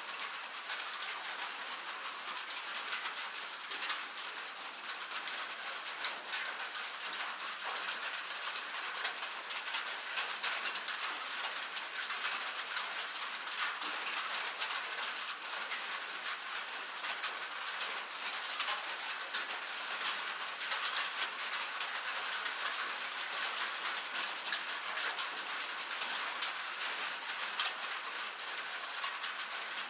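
Rain falling steadily on a metal roof: a constant hiss of rain with a dense, irregular patter of drops ticking sharply on the sheet metal.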